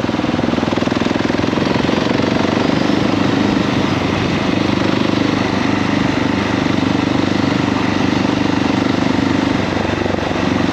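KTM 690 SMC R's big single-cylinder four-stroke engine, in its A2-restricted form, running at a fairly steady speed, with a rapid thumping beat.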